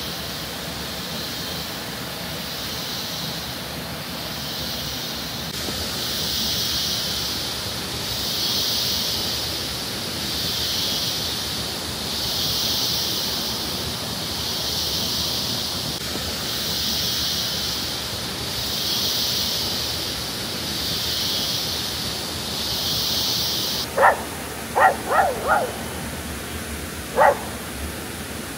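Steady rush of a waterfall, under a high hiss that swells and fades about every two seconds. Near the end a dog barks about five times in quick short yaps.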